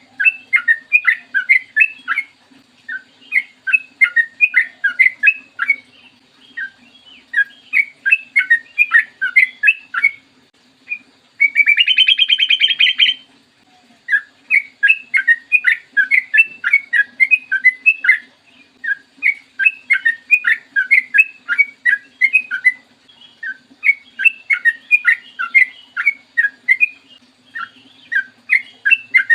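Trucukan (yellow-vented bulbul) singing long rapid phrases of bubbly chattering notes, each phrase about two seconds with short pauses between. About twelve seconds in comes a louder, harsh rattling burst lasting about a second and a half. A faint low hum runs underneath.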